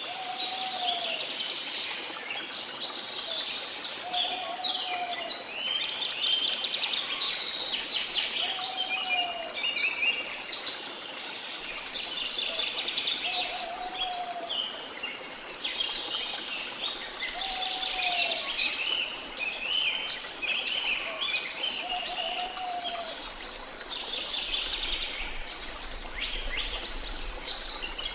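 Rainforest bird chorus: many birds chirping and trilling at once, with one low, arched whistled call repeating about every four seconds, over a faint steady rush of falling water.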